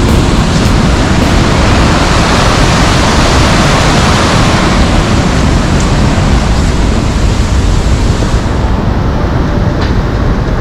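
Sogi Falls waterfall, a broad river cascade, roaring with a loud, steady rush of falling water; the highest hiss drops away near the end.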